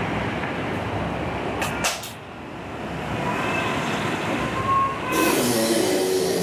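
Heavy tropical rain pouring steadily, mixed with wind on the microphone. A couple of sharp clicks come a little after a second and a half, and a louder hiss with faint tones sets in about five seconds in.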